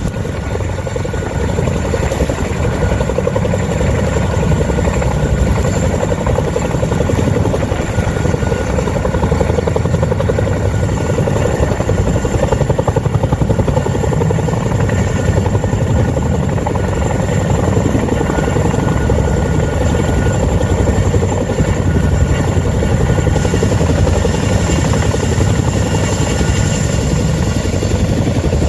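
Helicopter running close by: a loud, steady rotor thrum with fast blade pulsing and a constant high turbine whine.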